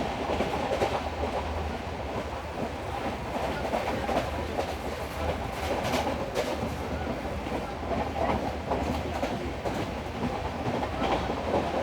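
Veraval–Jabalpur Express passenger train running steadily, a continuous rumble with the clickety-clack of its wheels over the rail joints and a few sharper clicks.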